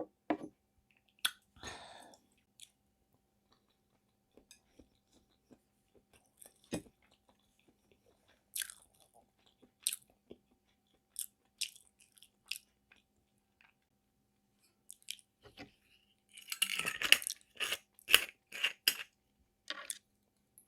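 Close-miked eating sounds of spicy sea snail bibim noodles: sparse wet mouth clicks and chewing, growing into a louder run of crunchy, smacking chews about three-quarters of the way in.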